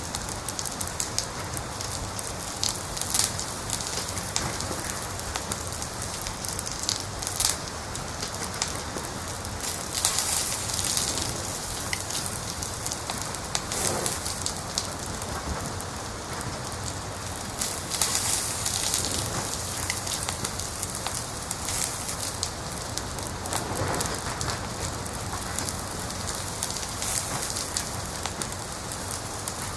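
Wood fire crackling steadily, with a dense run of irregular pops and snaps over a soft hiss, and louder flurries of crackle about ten seconds in and again near eighteen seconds.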